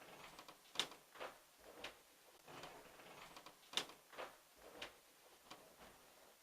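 Faint, irregular clicks and ticks, with two sharper clicks about three seconds apart, near the start and again in the middle.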